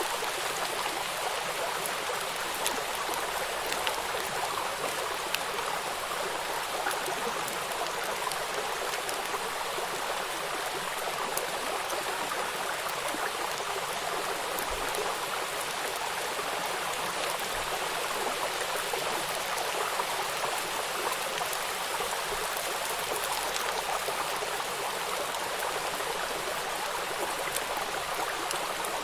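Rain falling on a flowing river: a steady rush of running water, dotted with many small raindrop ticks.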